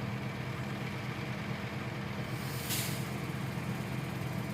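Shingle delivery truck's engine idling steadily, with one short hiss of air a little past two and a half seconds in.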